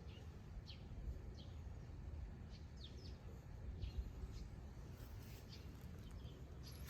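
Faint, short, high chirps of small birds, a dozen or so scattered irregularly, over a low steady rumble.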